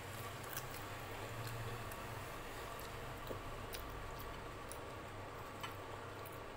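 Close-miked eating sounds: scattered small clicks and smacks of chewing, with fingers tearing soft luchi in curry, over a steady low hum.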